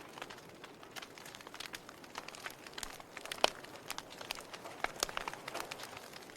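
Log fire crackling: irregular sharp pops and snaps from the burning wood over a soft steady hiss, with one loud pop about three and a half seconds in.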